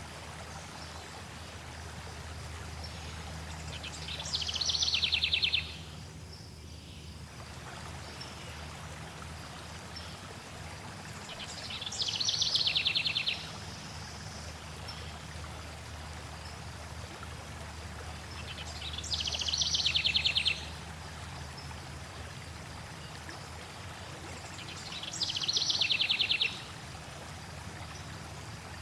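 Steady flowing stream water, over which a bird sings a short, fast trill four times, about every seven seconds, each phrase growing louder and then cutting off suddenly.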